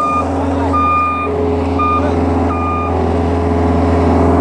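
Back-up alarm of a heavy vehicle beeping over its steady, low engine rumble. A few evenly pitched beeps stop about three seconds in, and the engine keeps running.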